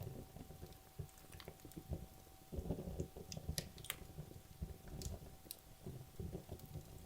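Wood logs burning in a fireplace: a low, uneven fluttering of the flames with irregular sharp crackles and pops from the burning wood, several of them close together in the middle.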